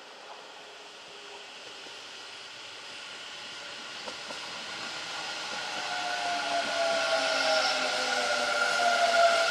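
Kintetsu electric train approaching, getting steadily louder, with whining tones from the train that drift slowly down in pitch over a rushing noise.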